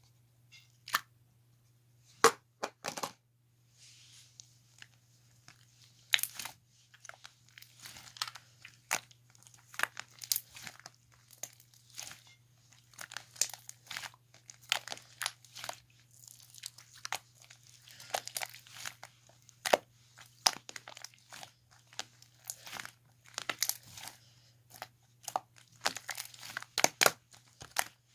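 Slime being worked by hand: squished, pressed and stretched, giving many sharp pops, clicks and crackles, some in quick clusters. A faint steady low hum runs underneath.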